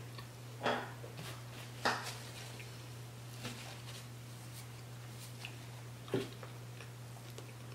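Quiet eating sounds of a person chewing a mouthful of snow crab: three short mouth clicks, one near the start, one about two seconds in and one near the end, with fainter ticks between. A steady low hum runs underneath.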